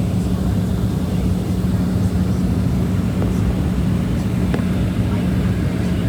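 Airplane engine droning steadily at a constant pitch, with an even low hum and no change in speed.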